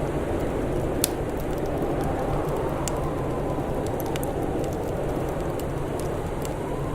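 Fire crackling: scattered sharp pops and snaps over a steady low rushing background, with the loudest pop about a second in.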